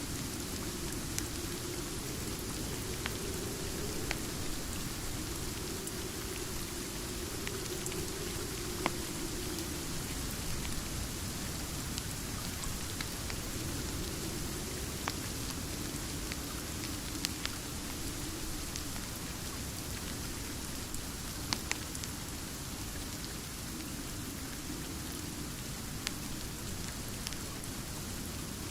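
Steady rain falling, a continuous even hiss with scattered sharp ticks.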